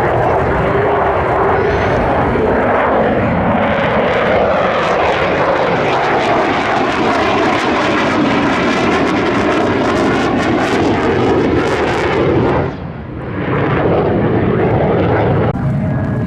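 Loud jet noise of an RF-4 Phantom's twin J79 turbojets as the aircraft flies past, with the tone sweeping as it passes. The sound dips briefly about three-quarters of the way through.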